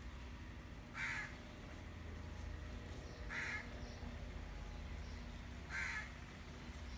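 A bird giving three short, harsh caws, about two and a half seconds apart.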